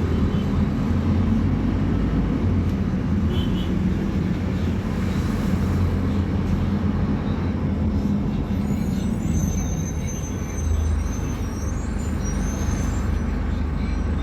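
Scania K250UB city bus's diesel engine running steadily with a low rumble. Faint high squeals come in during the second half.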